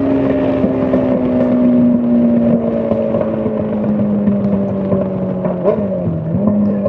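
Straight-piped Honda CBR600 inline-four engine running at high revs, its steady note slowly falling in pitch. About six seconds in it briefly drops lower and comes back up.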